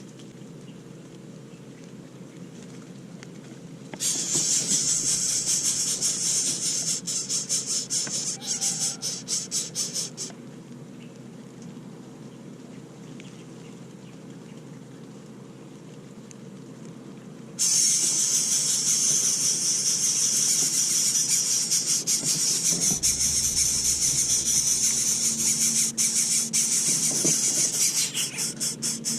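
A loud, high-pitched insect drone that switches on abruptly about four seconds in, stops about six seconds later, and starts again just past the middle, continuing steadily.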